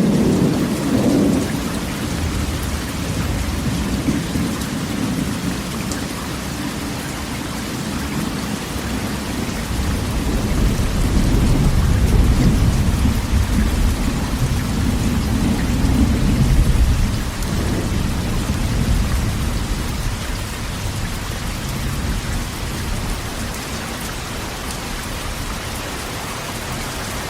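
Rain falling on a corrugated metal roof as a steady hiss, with low thunder rumbling at the start and swelling again from about ten to seventeen seconds in.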